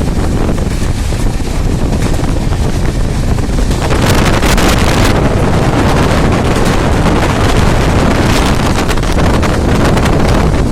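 Loud, steady rushing rumble of a train in motion, with wind buffeting the microphone; it gets a little louder about four seconds in.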